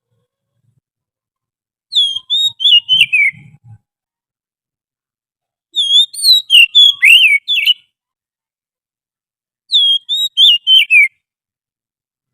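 Oriental magpie-robin song: three short phrases of clear, quick whistled notes, each one sweeping up and down in pitch and ending on a falling note, separated by silent gaps of about two seconds.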